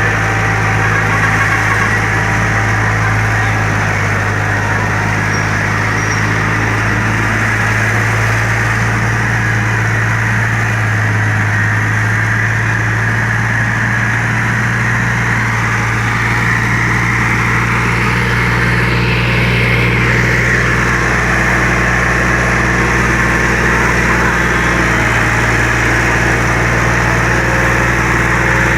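Diesel engine of a 40 HP Sonalika tractor running steadily at an even speed, with a strong low hum.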